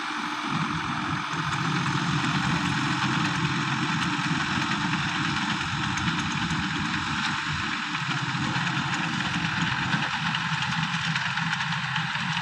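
Sonalika SS 55 turbo tractor's diesel engine running steadily.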